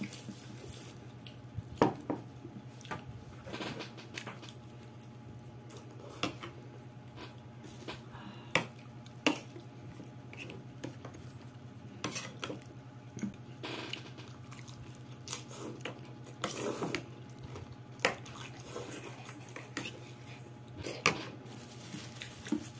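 Fork and spoon clinking and scraping against a bowl of lomi noodle soup while eating, in scattered irregular clicks, over a steady low hum.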